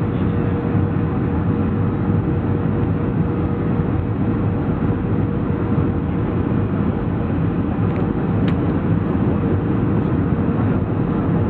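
Steady cabin noise inside a Boeing 737-400 in flight: the CFM56-3 turbofan engines and rushing air make a constant rumble with a steady hum running through it.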